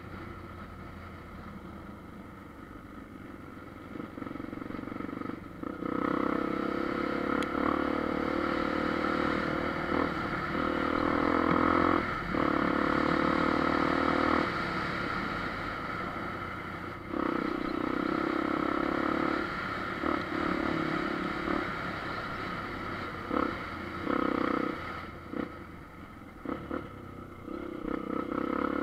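Enduro dirt bike engine running under load on a trail ride, revving up and backing off again and again as the throttle is opened and closed. Occasional short knocks come through.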